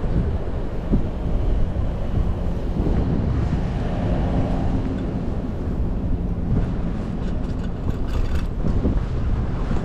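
Wind buffeting the microphone on a moving bicycle: a steady low rumbling rush, with a couple of faint knocks.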